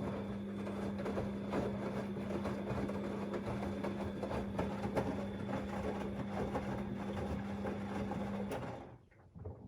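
Drain pump of a Siemens XLS 140 A washing machine running: a steady mains hum with water gurgling and crackling through it. It cuts off abruptly near the end, followed by a brief trickle.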